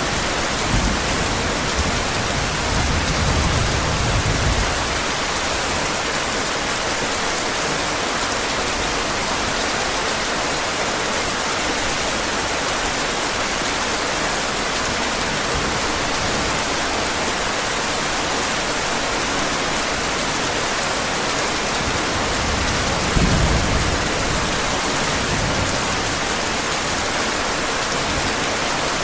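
Steady heavy rain, with low thunder rumbling through the first few seconds and again briefly about three-quarters of the way through.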